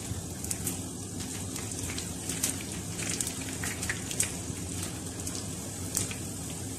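Potato and onion pakoras in gram-flour batter deep-frying in hot oil: a steady sizzle with frequent small crackles and pops as they are turned over.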